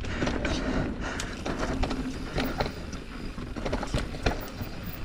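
Transition Spire mountain bike riding down a rough, technical dirt trail: tyres rolling over dirt and rock under a low rumble, with frequent irregular clicks and knocks from the chain and frame rattling over the bumps.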